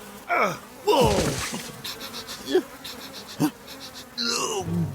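A cartoon character's short wordless vocal sounds, several quick cries that each fall in pitch.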